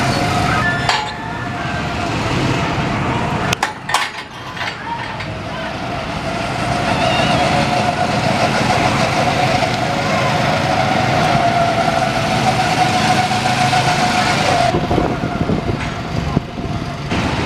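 Go-kart engines running steadily, with a sustained engine note and some background voices.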